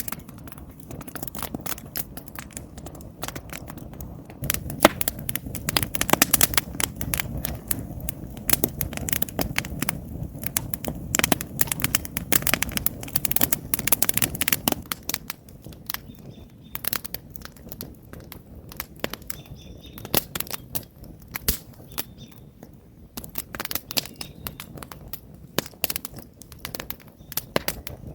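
Wood campfire crackling, with frequent sharp pops and snaps from the burning logs; a low rushing of the flames is stronger for about ten seconds in the first half.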